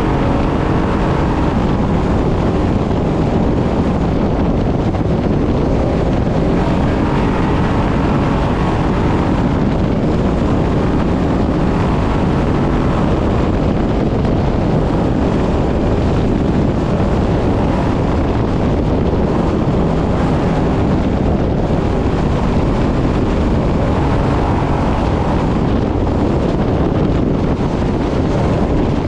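Brenthel 6100 trophy truck driving fast, its engine running under load inside a steady, dense rush of wind and terrain noise.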